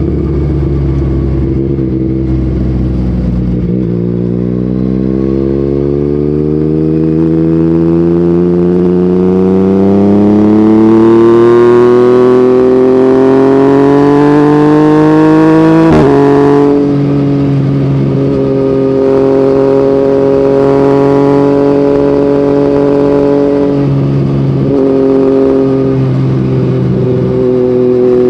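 Yamaha MT-09's three-cylinder CP3 engine running through an Akrapovic exhaust. Its pitch climbs steadily for about twelve seconds as it pulls through a gear, drops sharply at a gear change just past the middle, then holds a steady, lower cruising note.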